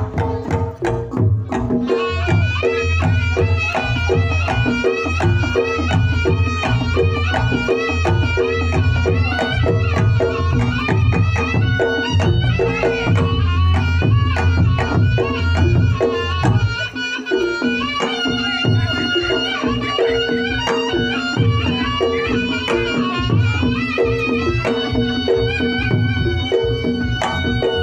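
Reog Ponorogo gamelan playing the jathilan dance accompaniment: a slompret shawm carries a wavering melody over kendang drumming and steady, repeating kenong and kethuk gong tones.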